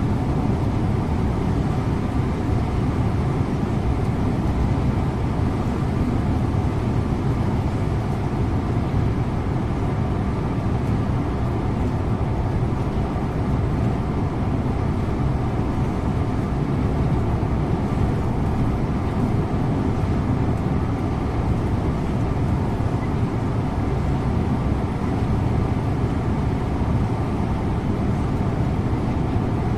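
Scania InterLink bus driving at a steady speed, heard from the driver's seat: a continuous low engine drone and road and tyre noise that holds even throughout.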